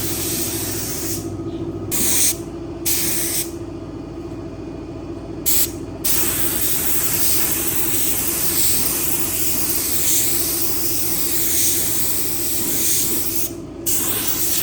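Compressed air hissing from a pneumatic nozzle: several short bursts, then a long continuous blast that swells and fades in a steady rhythm as it is swept back and forth, over a constant machine hum.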